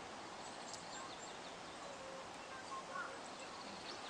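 Wood campfire burning outdoors: a steady soft hiss with one sharp crackle under a second in and a few faint short chirps.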